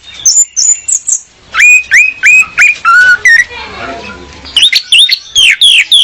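Female orange-headed thrush calling in loud, clear bursts of short notes that sweep sharply downward in pitch, three to six notes in quick succession per burst, with a fast run of about six falling notes near the end.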